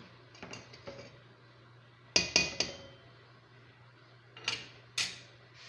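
A spoon knocking and clinking against a cooking pot while stirring a yogurt sauce with meatballs. There are a few faint taps, then three sharp knocks about two seconds in and two more near the end.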